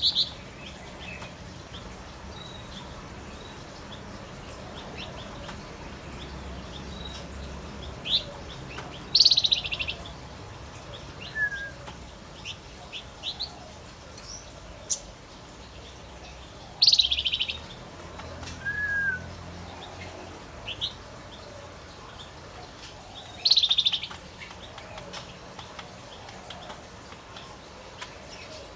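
A male wergan jawa (Javan fulvetta) singing short, high-pitched chirping phrases every few seconds, with a couple of lower single whistled notes between them.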